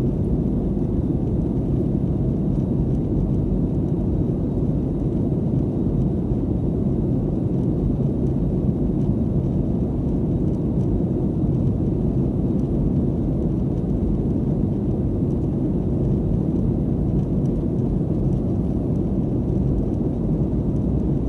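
Airliner cabin noise in flight: a steady low rumble of engines and airflow heard from inside the passenger cabin.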